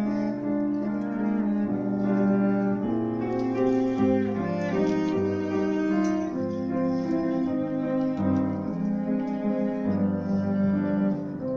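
Piano trio playing classical music: sustained bowed cello notes and piano chords, with violin also entering.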